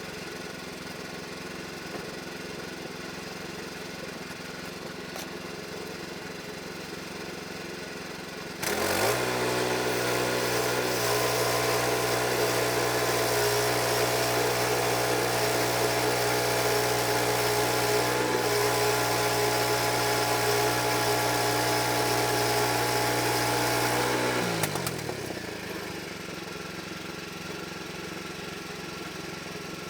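Sawmill engine idling, then about nine seconds in it rises in pitch and runs loud and steady with a wide hiss as the saw cuts through a pine log, for about fifteen seconds. It then drops in pitch and settles back to idle.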